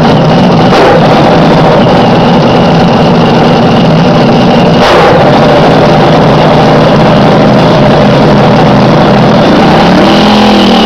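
Slingshot dragster's alcohol-fuelled engine running loud and steady during its warm-up, with a sharp crack about a second in and again about five seconds in, and the engine note dipping near the end.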